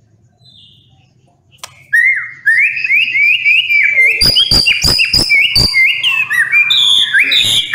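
White-rumped shama singing: after a brief quiet, a loud, rapid series of rising whistled notes begins about two seconds in and carries on. A quick run of about six sharp clicks cuts through the song about halfway through.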